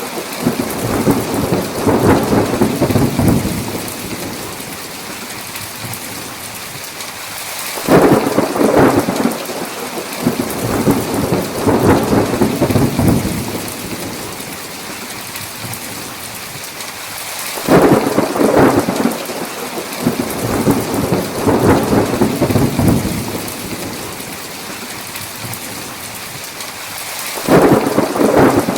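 Heavy rain falling steadily, with rolling thunder. A rumble fades out over the first few seconds, then fresh thunder breaks about 8 seconds in, again about 18 seconds in and near the end, roughly every ten seconds, each roll going on for several seconds.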